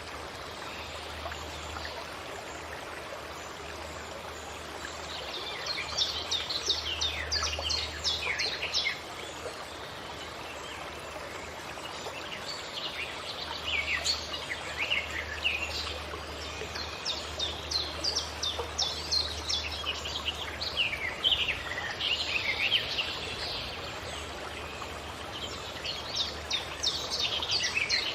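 Songbirds singing in spells of fast, repeated high notes over a steady rush of running water. The song comes in three spells: about five seconds in, from about thirteen seconds, and again near the end.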